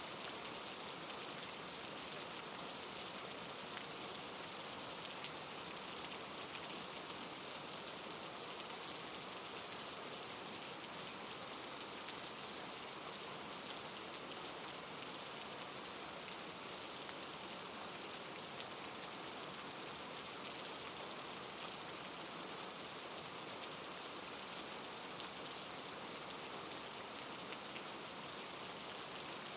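Steady soft rain falling on a surface, an even hiss with faint scattered drop ticks.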